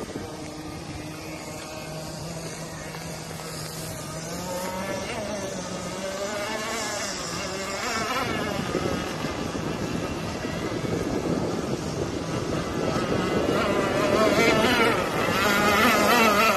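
Radio-controlled power boat's motor running on the water, its pitch wavering up and down as the throttle changes, getting louder toward the end as the boat comes closer or speeds up.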